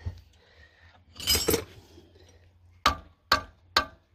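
Sharp metal-on-metal clinks from hand tools on the engine: a short scraping rattle about a second in, then three quick clinks a bit under half a second apart near the end.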